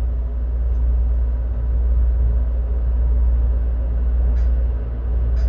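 Steady low rumble inside the cabin of a JR 255 series electric limited express train as it runs, with a couple of faint clicks near the end.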